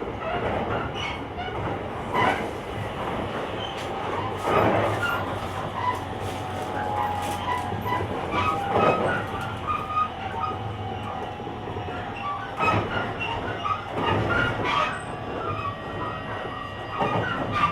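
Running sound of a JR Kyushu 885 series express train with Hitachi-built traction equipment, heard from the vestibule deck. The wheels knock over rail joints and points at irregular intervals, over a steady rumble with a faint motor tone.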